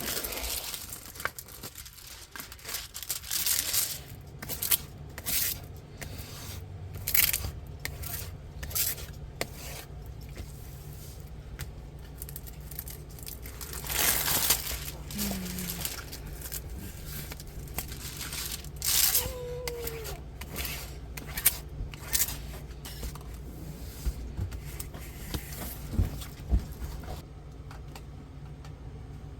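Plastic packaging of a diamond painting kit being handled: a run of irregular rustles, crinkles and crackles, with a steady low hum underneath.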